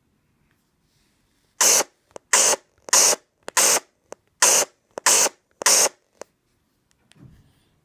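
An iPad giving out a strange noise: seven bursts of static-like hiss, each about a third of a second long, coming at an even beat of roughly one every 0.6 seconds, with faint clicks in between.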